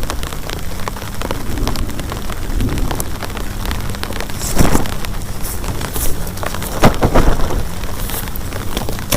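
Heavy rain pattering densely on a surface, with a fast scatter of individual drop hits. Louder clusters of heavy splatters come about halfway through and again about seven seconds in.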